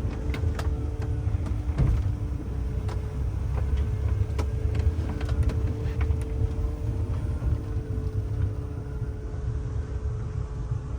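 The 27-foot boat's engine running at low idle while backing into the slip: a steady low rumble with an even hum over it. A few light clicks come through the engine noise.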